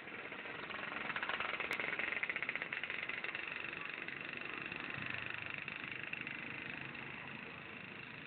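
Old Vespa scooter's single-cylinder two-stroke engine running with a fast, even pulse, louder for a couple of seconds about a second in, then steady.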